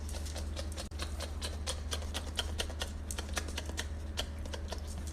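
Dog chewing a piece of steak: a quick, irregular run of small clicks and smacks.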